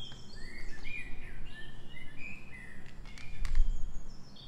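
Small birds chirp over and over in the background. About three and a half seconds in come a couple of sharp clicks and a soft knock as a plastic pulse oximeter is set down on the tray of a digital pocket scale.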